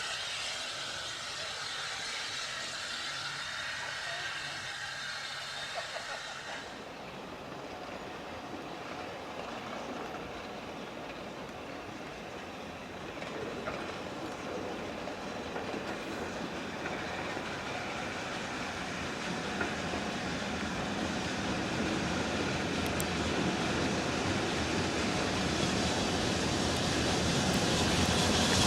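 Steam-hauled train approaching, the running noise of its wheels on the rails growing steadily louder through the second half. For the first seven seconds a steady high hiss lies over it, and cuts off suddenly.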